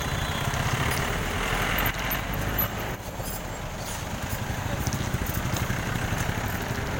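A motor vehicle engine running close by, a steady rapid low pulsing with road noise over it, easing slightly about three seconds in.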